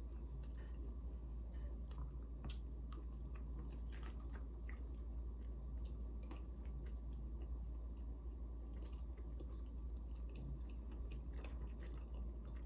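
A person chewing soft food (macaroni and cheese) with scattered small mouth clicks, over a steady low hum.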